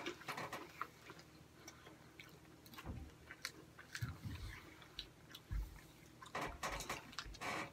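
Close-up chewing and mouth sounds of a person eating breaded chicken nuggets: irregular small clicks and smacks, with a few soft low thumps.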